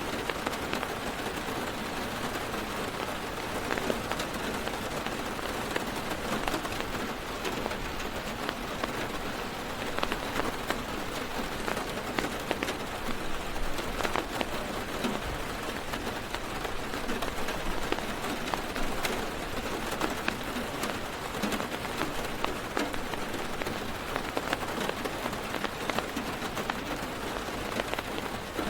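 Heavy rain drumming on a car's roof and windows, heard from inside the car: a steady dense patter with many sharp individual drop hits.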